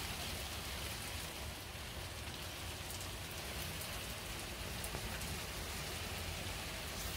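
Steady rain falling on a paved path and leafy shrubs, with a few separate drop ticks standing out.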